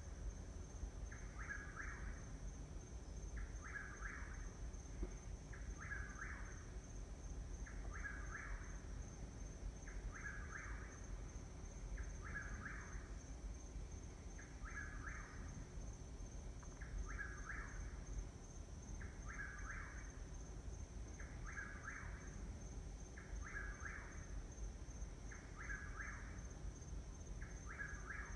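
A bird calling in the night, repeating the same short call about every two seconds, over a steady high-pitched insect trill.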